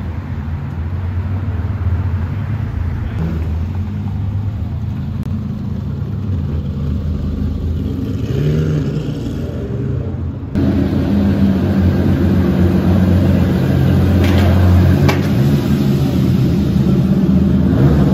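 Classic Ferrari V12 engines running and revving as the cars drive, with pitch rises like throttle blips. After a sudden cut about halfway through, a Ferrari 250 Testa Rossa's 3-litre V12 runs louder inside a parking garage.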